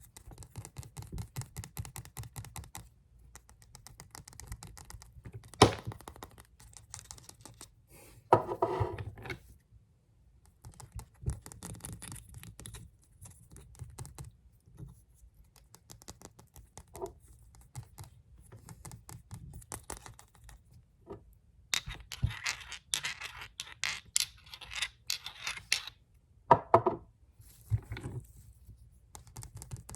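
Fast tapping and scratching on nail polish bottles: bursts of rapid clicks with a few louder knocks, and a longer stretch of scratching about two thirds of the way in.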